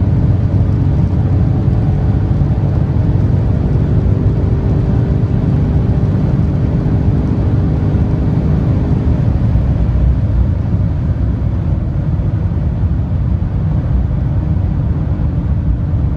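BMW M5 G90's twin-turbo V8 running hard at high motorway speed, its steady engine tone mixed with heavy wind and tyre noise. The engine tone fades into the road and wind noise after about nine seconds.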